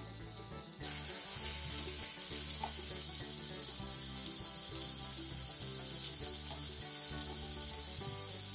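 Chicken fillets sizzling in hot oil in a frying pan, a steady hiss that comes up louder about a second in, over background music.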